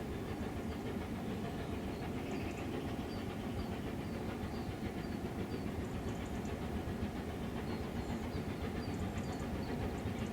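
A steam-hauled train running on the line: a steady rumble of wheels on rail, growing slightly louder as it approaches.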